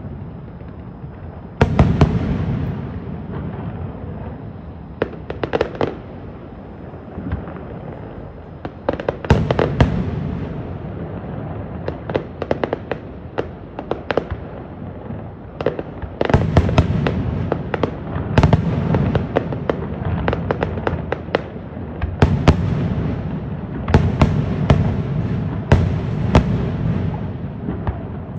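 Aerial fireworks display: shells bursting in clusters of sharp bangs, with runs of rapid crackling between them over a continuous rumble.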